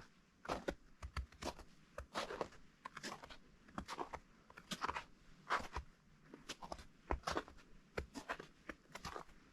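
Footsteps crunching on partially melted, granular spring snow at a steady walking pace, a little more than one step a second.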